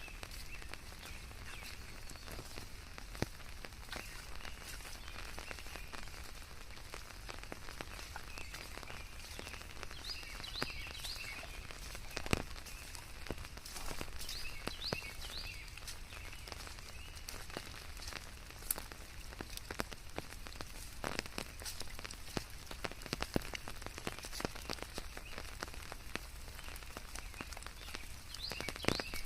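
Steady rain falling, with scattered single drops ticking close by. A few small groups of short high chirps come through about ten and fifteen seconds in and again near the end.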